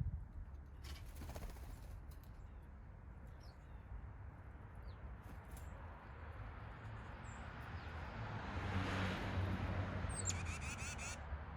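Backyard songbirds calling: a few faint short chirps, then a rapid trill near the end. Underneath is a low steady rumble, and a swell of rushing noise rises and fades a little after the middle.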